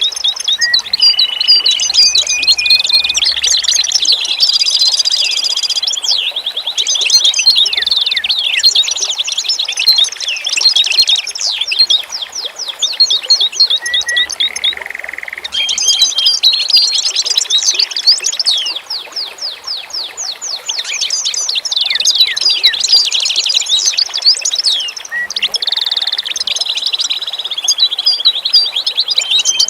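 Several songbirds singing together, a dense chorus of rapid trills, chirps and short whistles with brief lulls.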